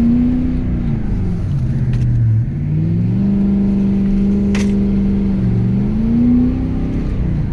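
Tuned, emissions-deleted 6.7 L Power Stroke turbodiesel V8 of a 2017 Ford Super Duty pickup, revving up and down under throttle: the revs drop twice and climb back, holding steady in between. A single sharp click comes about halfway through.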